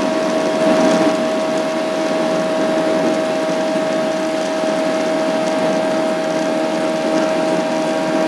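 Steady airliner cabin noise: a constant drone from the engines and air system, with a steady whine running through it.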